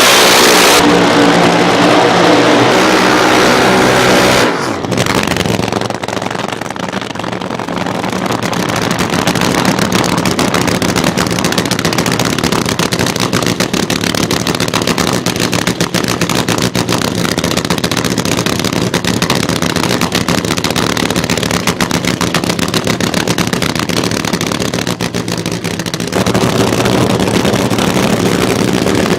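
An engine running, at higher revs for the first few seconds, then dropping abruptly to a steady, rapid, rhythmic run, with another change near the end.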